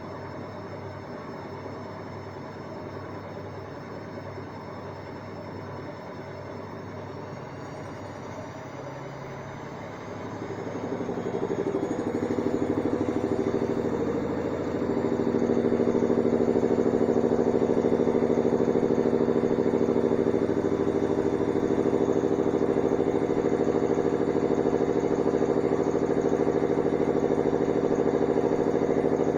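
Hanseatic washing machine on its spin cycle. For the first ten seconds or so it runs steadily at a lower speed. Then the motor speeds up with a rising whine and settles into a loud, steady high-speed spin.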